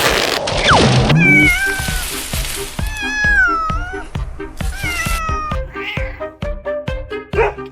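A cat meowing, three drawn-out meows that bend in pitch, the middle one the longest, over music with a steady beat.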